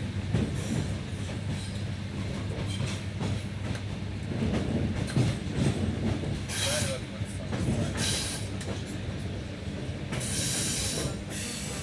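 A train moving slowly through a rail depot, its wheels clacking over rail joints under a steady low hum. Several short bursts of high hiss come in the second half.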